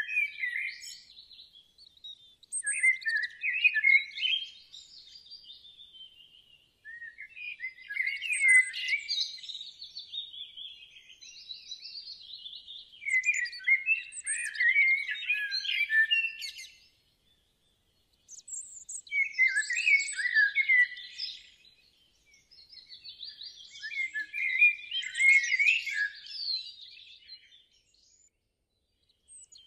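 Songbirds chirping and singing in busy bouts of a few seconds, separated by short pauses.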